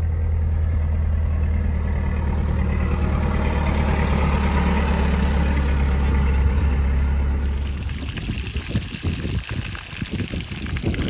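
An engine idling steadily with a low hum, shut off about eight seconds in, followed by irregular knocks and rustling.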